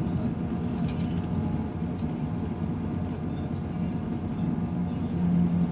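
Interior running noise of a Class 158 diesel multiple unit on the move: a steady drone from its underfloor diesel engine and wheels on the rails, with a low hum that swells briefly near the end. A single sharp click about a second in.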